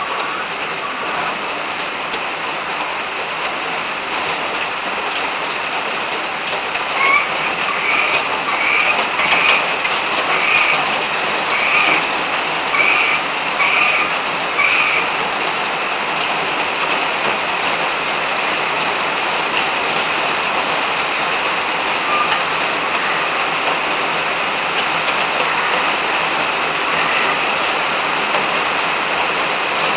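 Steady rain falling, with frogs calling through it. Near the middle comes a run of short repeated croaks, about one a second, for several seconds.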